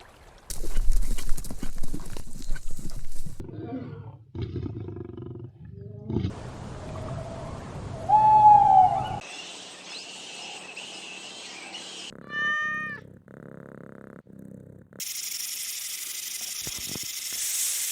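A series of short animal-call clips cut one after another, each starting and stopping abruptly; the loudest is a falling call about eight seconds in, with a quick run of descending calls a few seconds later.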